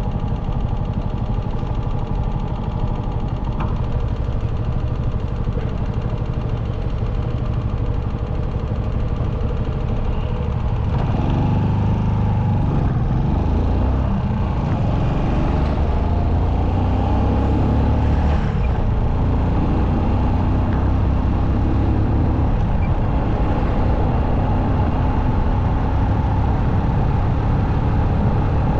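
Motorcycle engine running steadily under way, with road noise, getting louder and heavier from about eleven seconds in.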